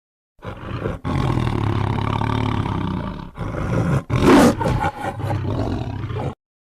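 Tiger roaring: a run of long, low roars with short breaks between them, the loudest about four seconds in, ending abruptly.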